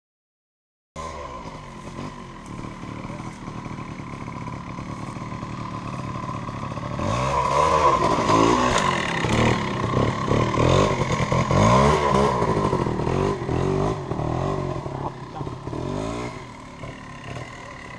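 Old trials motorcycle engine being blipped on the throttle, its pitch rising and falling again and again. It starts after a second of silence and is loudest in the middle stretch as the bike rides through the section.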